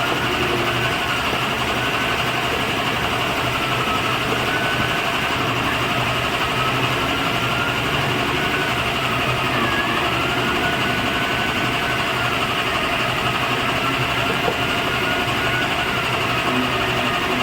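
Woodworking machine, most likely the wood-turning lathe, running steadily, with a whine whose pitch dips and recovers several times as the motor's speed changes.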